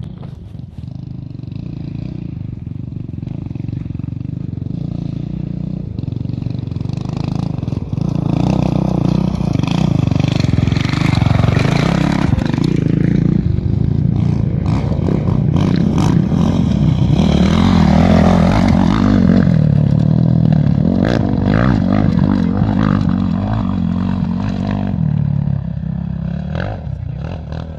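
A motor vehicle's engine running steadily, growing louder through the middle and easing off near the end.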